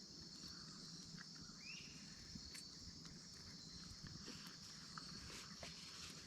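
Faint, steady chirring of crickets, with a few small ticks and taps over it.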